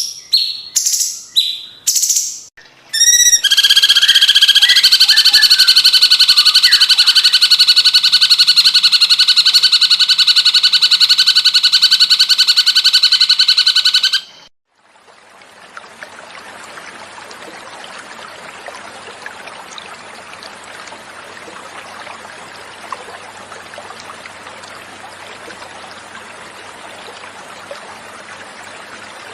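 Cucak cungkok calling: a few short sharp calls, then one long, fast, loud trill that cuts off abruptly about halfway through. After a short gap, water running in a steady trickle.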